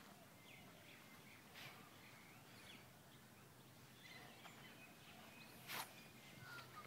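Near silence outdoors: faint background noise with a few soft, distant bird chirps, and two soft steps, one about a second and a half in and a louder one near the end.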